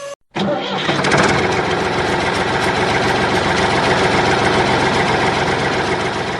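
Small engine of a homemade mini tractor starting about half a second in, then running steadily.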